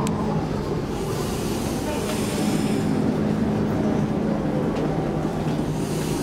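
Inside an X10 electric commuter train car: steady running rumble of the wheels on the rails with the electric drive's hum, and a faint whine falling in pitch as the train slows alongside a platform.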